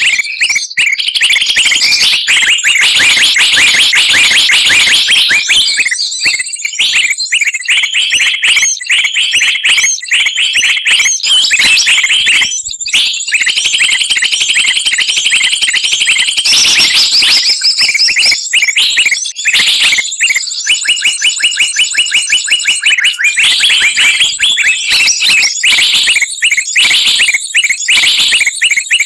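Bird-lure recording of many small songbirds calling at once: a loud, dense chatter of high chirps and trills with runs of fast repeated notes, played to draw wild birds down to a trap.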